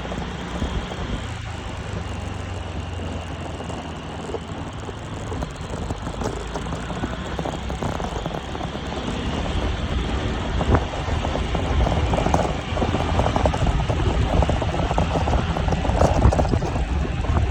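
A vehicle running on the move with wind noise, mostly a low rumble that grows louder and rougher about halfway through.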